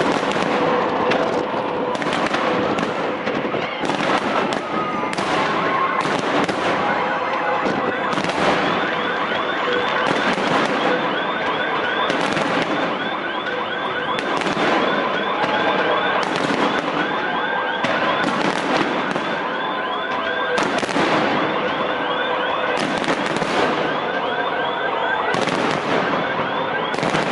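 Fireworks display: a barrage of aerial shell bursts, one sharp bang every second or two. From about a third of the way in, a rapid chirping, warbling tone repeats over the top of the bangs.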